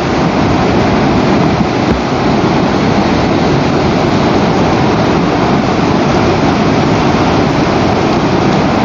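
Wind buffeting the nest camera's outdoor microphone: a loud, steady rushing noise with an uneven low rumble underneath and no distinct events.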